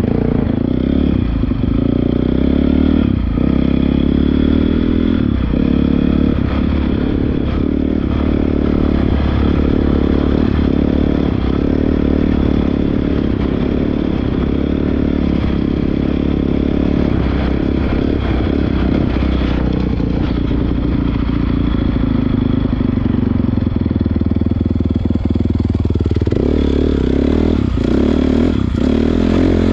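Honda CRF450R's single-cylinder four-stroke engine running while the dirt bike is ridden, its revs rising and falling with the throttle.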